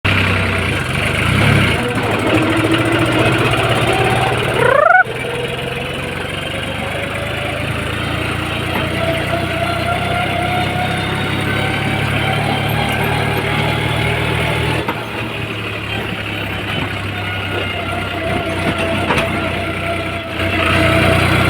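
New Holland tractor engine running steadily, with a whine that slowly climbs in pitch as it picks up speed. A quick rising glide is heard about five seconds in.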